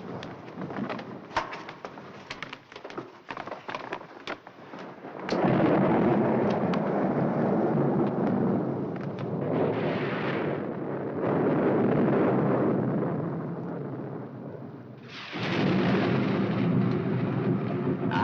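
Thunderstorm: rain with a sharp crackle, then a sudden heavy crash of thunder about five seconds in that rolls on, swells again around ten to twelve seconds, and breaks out loud once more near the end.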